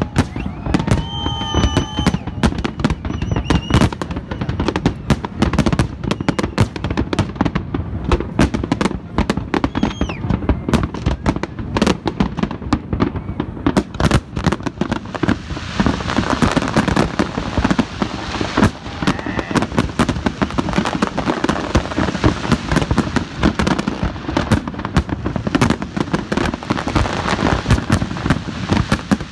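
Large aerial fireworks display: a continuous barrage of shell bursts, one bang after another with no pause, growing denser from about halfway through as a thick crackle fills in between the bangs.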